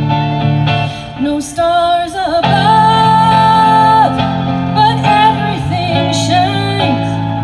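A song with a female voice singing held, sliding phrases over guitar accompaniment.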